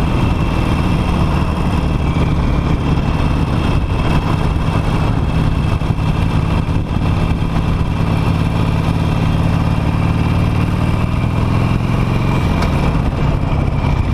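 Harley-Davidson Nightster's V-twin engine running steadily while the motorcycle is ridden, with a slight change in engine pitch near the end.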